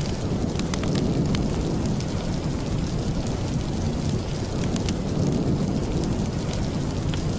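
Steady rain with a deep, continuous rumble, sprinkled throughout with small sharp ticks and crackles.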